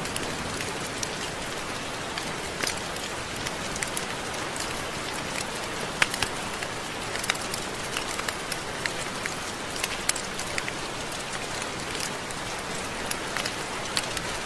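Steady rain, with many individual drops ticking sharply on a nearby surface over an even hiss.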